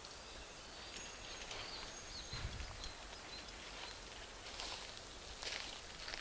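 Wood-and-charcoal campfire (Iwate cut charcoal) burning with a soft hiss and scattered small crackles and pops, the pops coming more often in the second half. Faint bird chirps sound in the background.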